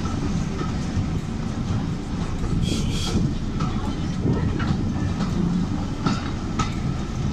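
Railway brake van riding behind a Class 08 diesel shunter: a steady low rumble of wheels on the track, with a few sharp clicks over rail joints and a brief high squeal about three seconds in.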